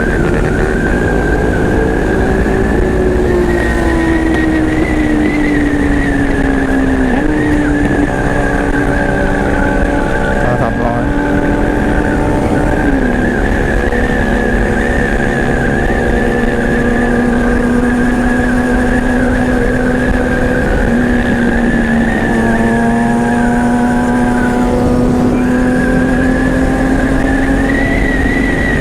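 Honda CBR500R parallel-twin motorcycle engine running under way at steady road speed, its note sagging slowly, then stepping up sharply twice and holding steady, with a steady high whine over it.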